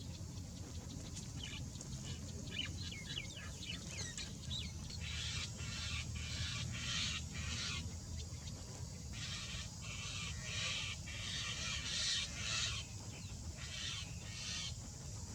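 Birds calling: a run of quick chirps in the first few seconds, then repeated short, harsh squawks, over a steady low rumble.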